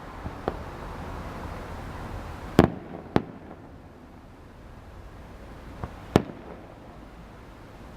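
Fireworks bursting: about five sharp bangs over a steady background hiss. A loud pair comes about two and a half to three seconds in, and another strong bang near six seconds.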